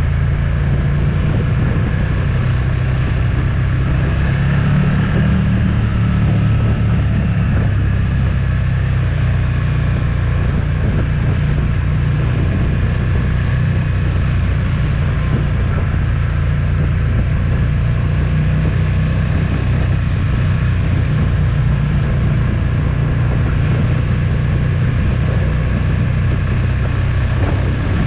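Motorcycle engine running at a steady pace on the move, with wind noise over the microphone.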